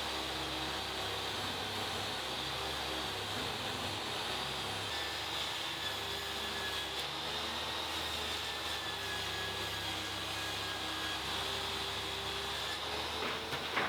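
A machine running steadily: an even hum with a rush of air over it. A few sharp knocks come near the end.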